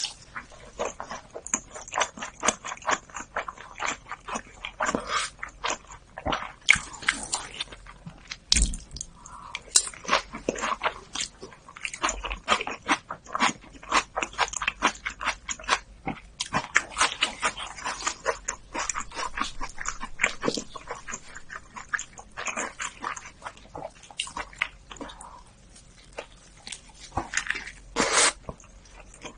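Close-miked chewing: a rapid, continuous run of wet mouth clicks and smacks from someone eating, with a louder smack about a third of the way in and another near the end.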